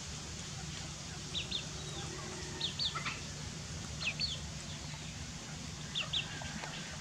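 Birds chirping: short high falling chirps, mostly in pairs, four times over a steady low hum.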